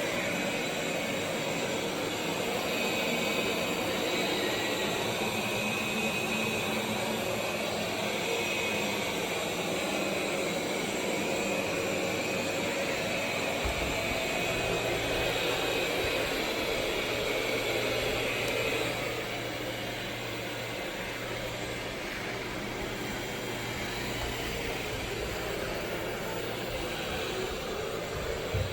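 Roborock Q5 Pro robot vacuum running steadily, its suction fan and brushes giving a constant whirring noise with a high whine. About halfway through a low hum joins in, and the sound drops slightly a few seconds later.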